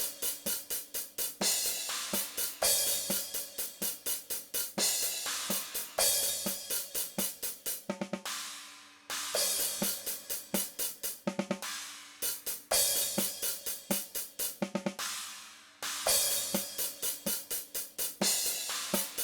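DrumGizmo virtual drum kit heard through its overhead tracks: a steady groove of hi-hat strokes with a cymbal crash every three seconds or so, with faint snare hits. The snare is being fed into the overheads through a send to simulate microphone bleed.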